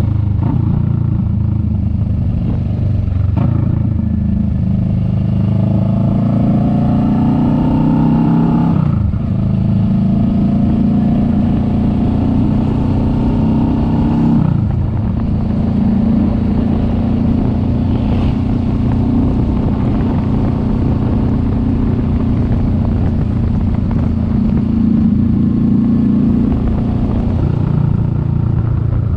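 Kawasaki Vulcan S 650's parallel-twin engine pulling the bike along, its pitch rising through a gear and then dropping sharply at an upshift about nine seconds in and again at about fourteen seconds. After that it holds a steady pitch at cruising speed.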